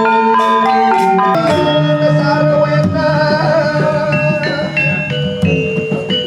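Balinese gamelan music: bronze metallophones strike quick runs of ringing notes. About a second and a half in, a wavering held melodic line joins them.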